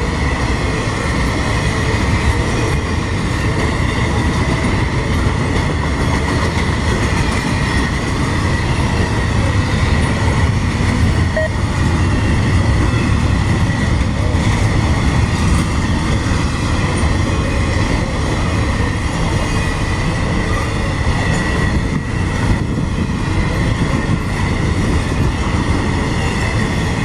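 A long CSX intermodal freight train's cars roll past on the rails, a loud, steady clatter and rumble of wheels on track with a thin high-pitched squeal held underneath.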